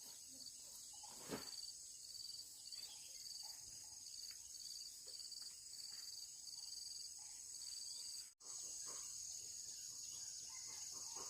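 Crickets chirping faintly in a steady pulsing rhythm, about two high chirps a second, with a few soft knocks underneath. The sound drops out briefly about eight seconds in, and a more continuous high insect buzz takes over.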